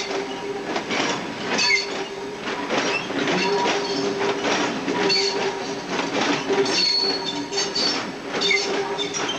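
A train running slowly along station track, its wheels knocking irregularly over rail joints and points, with short high wheel squeals and a steady mechanical hum underneath.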